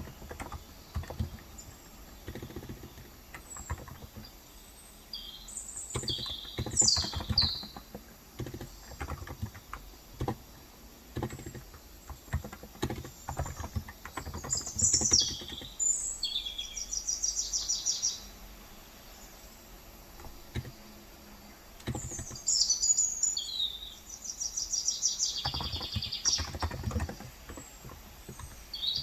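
Typing on a COX Endeavor electrocapacitive keyboard with 35 g switches, in irregular runs of keystrokes. Birds chirp in several bursts over it, some as quick even trills.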